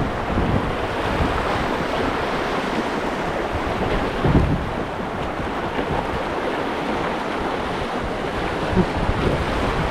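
Rushing whitewater of a river rapid, a steady loud wash of churning water.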